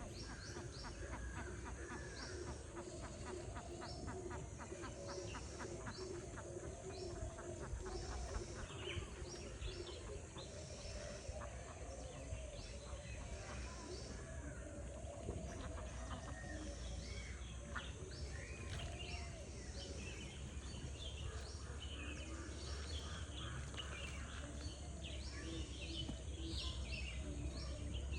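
Birds chirping and calling over a steady low rumble, with a quick series of rapid pulsed calls in the first few seconds.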